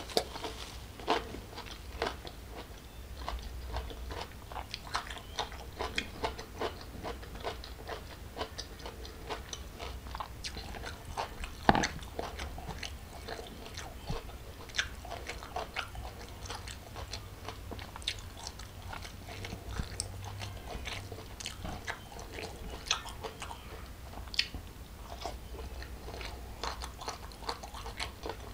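Close-miked chewing of a mouthful of crunchy raw vegetables and rice, with many small wet crunches and mouth clicks, and one sharper crunch about twelve seconds in.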